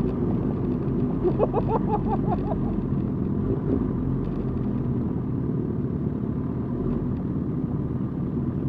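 Motorcycle engine running steadily at parade pace, a continuous low rumble with a brief higher warbling sound about a second in.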